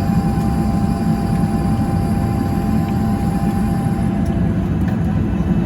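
Steady low rumble inside a jet airliner's cabin after landing, its engines still running as it taxis. A thin steady whine fades out about four seconds in.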